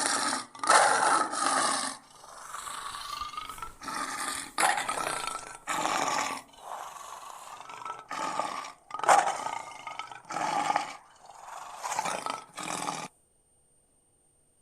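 Lion roaring: a long bout of about a dozen roars and grunting calls in a row, the first few loudest.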